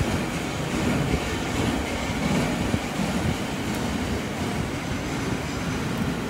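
Freight train's flat steel wagons rolling past on the track, a steady rumble of wheels on rail.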